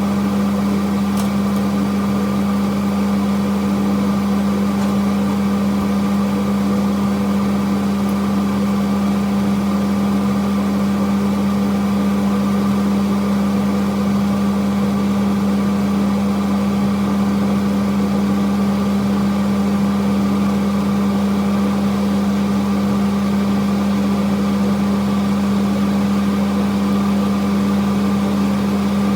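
A steady, unchanging machine hum with a strong low drone.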